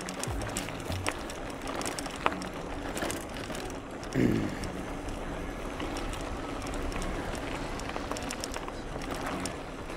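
Mountain bike coasting downhill over a rough trail: tyre noise with the bike clattering and rattling over bumps, and one brief louder knock about four seconds in.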